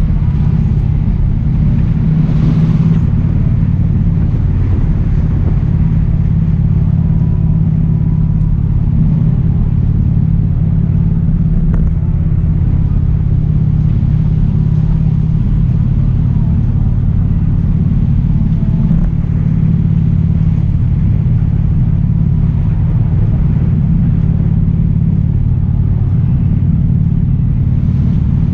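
Motorcycle engine running at a steady cruising speed while riding, a loud low sound whose pitch holds even. There is a brief rush of noise about two and a half seconds in.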